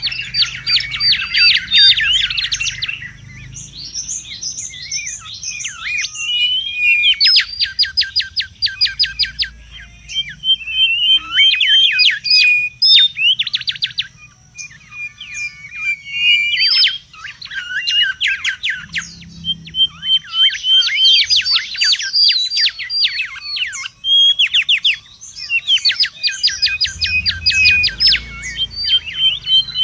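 Mangrove whistler (kancilan bakau) calling noisily. Phrases of a few seconds, each of rapid repeated sweeping notes mixed with short steady whistles, follow one another with brief pauses. This is the excited calling used as a lure and tutor song for other birds.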